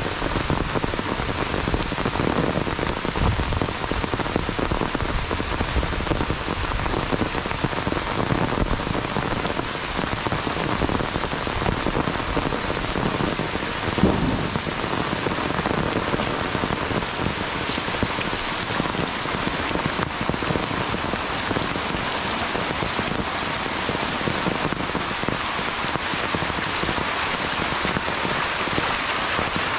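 Heavy monsoon rain falling steadily on a dirt path and trees, with one brief thump about halfway through.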